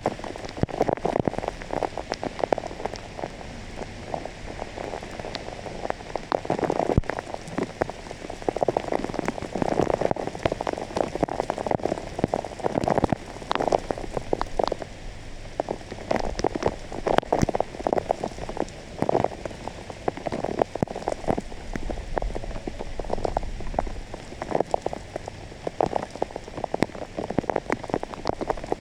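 Heavy rain striking close to the microphone: a dense, irregular stream of drop hits over a steady wash of rain noise.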